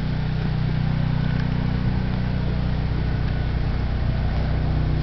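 Steady low motor hum that holds one even pitch throughout, with a faint hiss over it.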